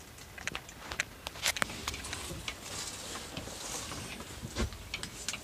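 Scattered small clicks and taps with light rustling, handling noise from someone moving about and touching things in a truck cab.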